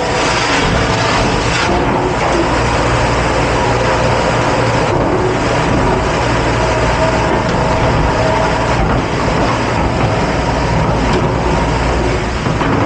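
Commercial dish-pit equipment running: a steady, loud rush of spraying water over a low motor hum.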